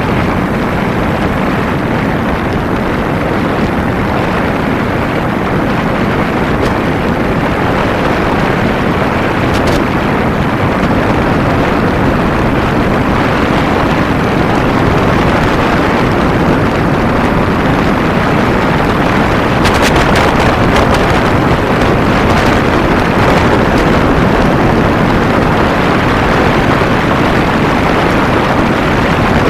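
A Kawasaki Ninja 250 parallel-twin motorcycle under way, with heavy wind rush over the microphone and the engine running beneath it, steady and loud. It grows a little louder in the second half.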